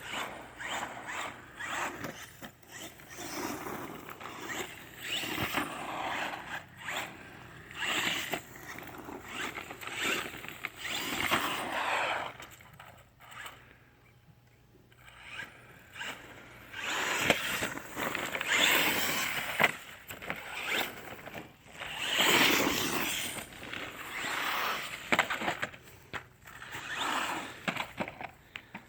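Redcat Volcano EXP Pro electric RC truck's motor whirring and tires scrabbling in repeated bursts as it accelerates and turns, with a quieter lull about halfway through.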